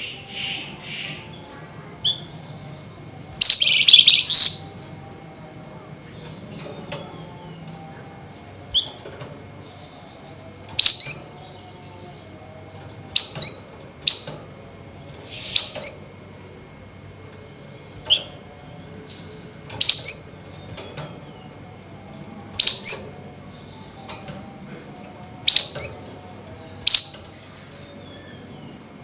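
A flamboyan songbird giving shrill, sharp calls, the excited 'nyerecet' chatter: about a dozen short bursts, two to three seconds apart, each a quick high sweep, with a slightly longer burst a few seconds in.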